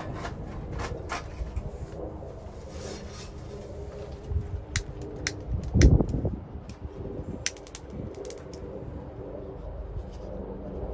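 Wood fire crackling in a secondary-combustion fire pit: scattered sharp pops over a steady low rush, with one louder thump about six seconds in.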